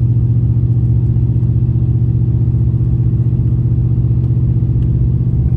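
GMC 2500HD pickup's 6.0-litre gasoline V8 running steadily while driving, a constant low drone heard from inside the cab.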